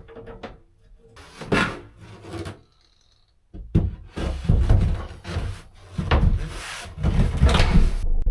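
Rubbing, scraping and bumping handling noises in several irregular bouts, with a short pause in the middle.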